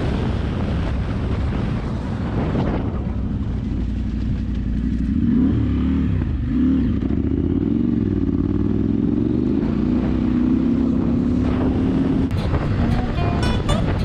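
Motorcycle engine running under wind and road noise; from about four seconds in its pitch rises and falls several times as the throttle is opened and closed.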